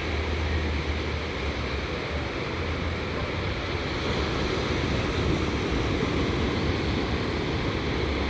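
Small, gentle surf washing steadily on a sandy ocean beach on a calm day, with low wind rumble on the microphone.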